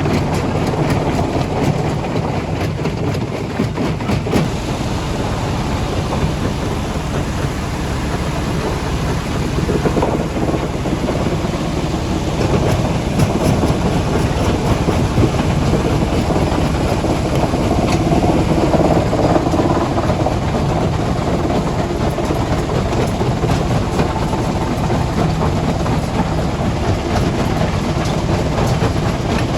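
Heavy quarry machinery running steadily under load, with a continuous low rumble and frequent rattling knocks.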